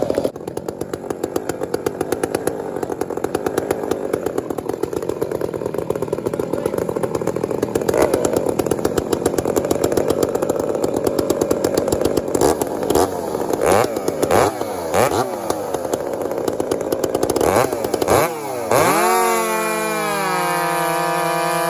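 Two-stroke chainsaw, the one with what the faller calls a dull bar, running at full throttle in a cut. Its speed surges and dips over the last few seconds of cutting, then it drops to idle about 19 seconds in.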